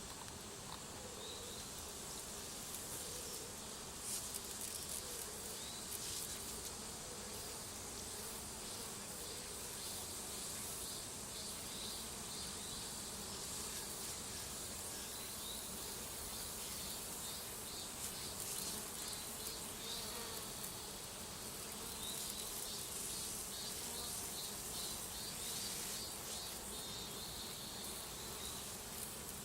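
A honeybee swarm buzzing steadily, with no break or change in level.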